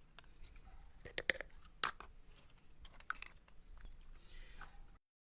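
Faint scattered clicks and light handling noises, a few sharp ticks about a second in and again near two and three seconds, then the sound cuts to dead silence near the end.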